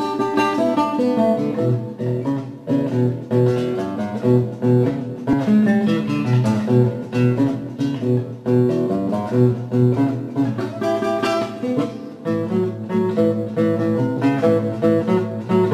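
Acoustic guitar playing a simple blues in E major: picked notes and chords over a steadily pulsing low bass part.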